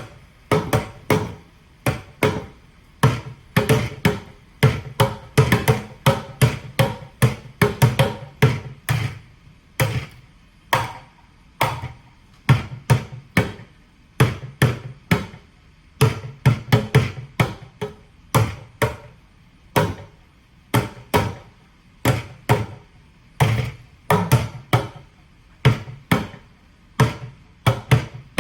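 Plastic buckets played as drums with sticks: runs of quick, uneven hits with a dull, hollow thump, broken by short pauses.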